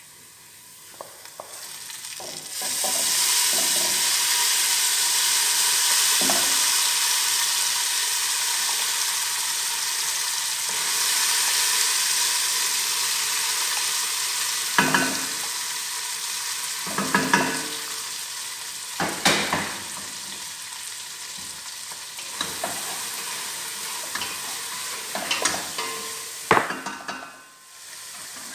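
Food sizzling steadily in hot oil as it is sautéed, starting about two seconds in, with a metal spatula knocking and scraping against the pan several times in the second half.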